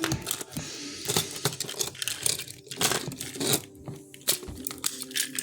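Toy train set pieces being handled: a run of irregular clicks, knocks and clatter.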